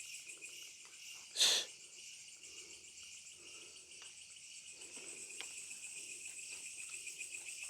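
Night insect chorus of crickets trilling steadily on a high pitch, with a short, loud burst of noise about a second and a half in.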